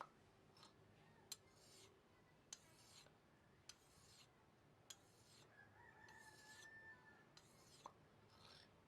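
Faint, repeated strokes of a shears blade rubbed along a wet whetstone, about one short hissing stroke a second. About halfway through, a distant rooster crows once for about two seconds.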